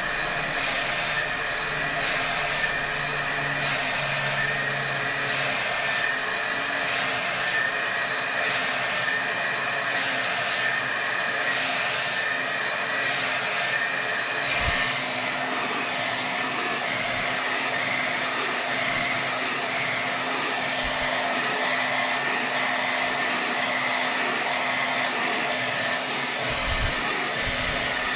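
Hair dryer blowing steadily at its maximum setting: an even rush of air with a steady high motor whine.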